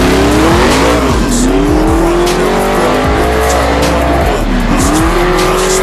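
Car engine revving hard at a drag race: its pitch climbs, drops sharply about a second and a half in, climbs again, then dips and rises once more near the end, over a hip hop beat.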